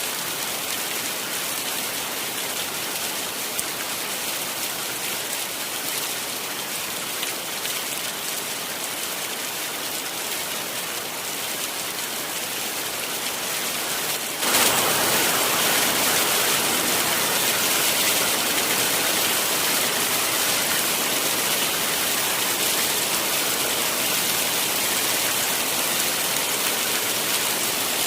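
Heavy rain falling steadily. About halfway through it abruptly becomes louder and fuller, then holds at that heavier level.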